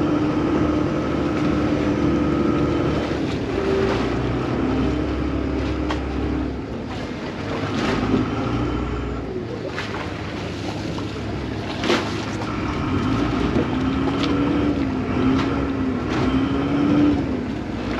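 Vaporetto water bus's diesel engine running underway: a steady low rumble with a wavering whine over it, and a few sharp knocks. The deepest rumble eases about a third of the way in.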